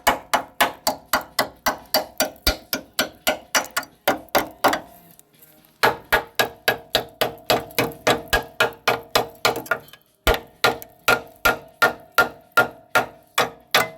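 Hammer blows on rusted metal, struck quickly and evenly about three to four times a second, each with a metallic ring. There are brief pauses about five seconds in and again near ten seconds.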